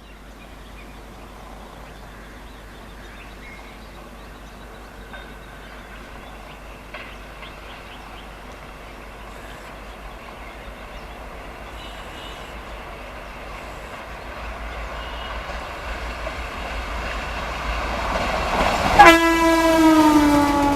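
An Indian Railways train approaching, its rumble slowly growing louder, then the locomotive's horn sounding about two seconds before the end as it passes, its pitch dropping as it goes by.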